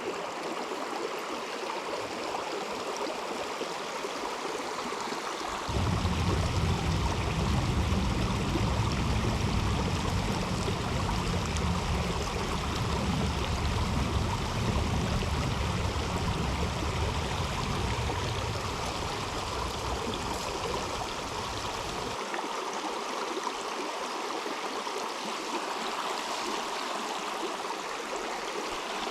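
River water flowing steadily. A low rumble comes in suddenly about six seconds in and stops suddenly about twenty-two seconds in.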